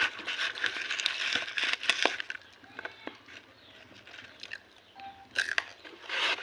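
Crunching of crunchy corn snacks, popcorn and cornick, being chewed close to the microphone: dense crackling for the first two seconds or so, then sparser crunches with a couple of louder ones near the end.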